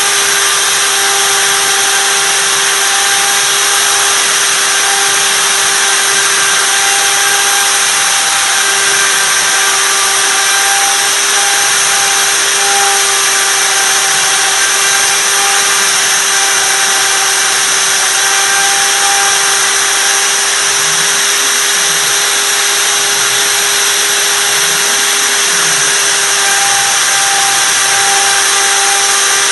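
CNC router spindle running steadily while milling wood: a constant whine over a loud, even hiss of cutting.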